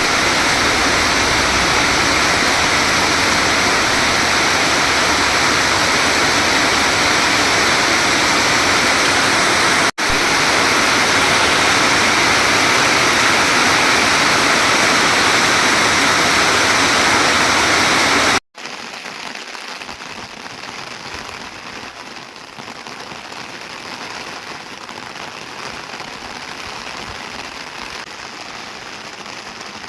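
Heavy rain pouring down in a dense, steady hiss. About eighteen seconds in, the sound cuts abruptly to a softer, lighter rain.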